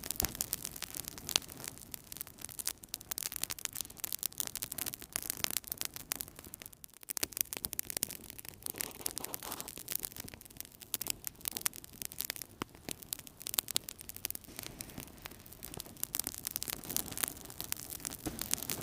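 Wood fire burning in a fireplace: dense, irregular crackling with many sharp snaps and pops over a soft rushing of the flames, dipping briefly about seven seconds in.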